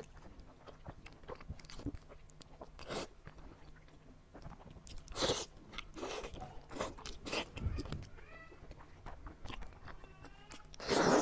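Close-miked biting and chewing of braised pork trotter: irregular wet mouth smacks and bites, the loudest cluster near the end.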